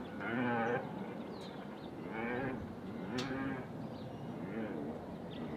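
Farm animals calling: a series of short calls with a wavering pitch, about five in all, a second or so apart.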